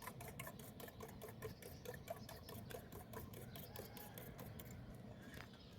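Rapid, even clicking, about seven clicks a second, that thins out near the end.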